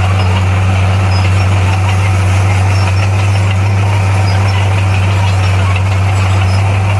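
Heavy earthmoving machine's diesel engine running steadily, a loud, even low drone.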